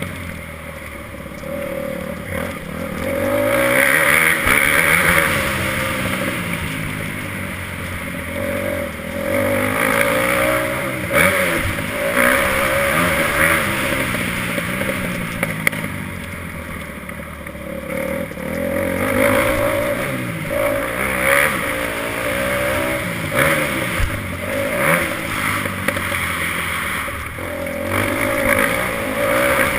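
Motocross bike engine running hard around a dirt track, its pitch climbing and dropping again and again with the throttle and gear changes, with a few sharp knocks.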